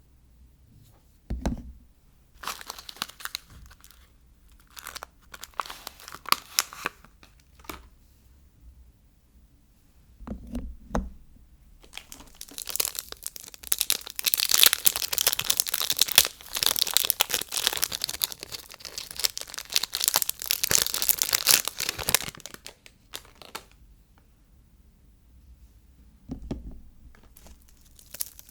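Soap packaging being torn open and crinkled by hand, in short bursts and then one long stretch of tearing and rustling. A few soft thuds fall between them.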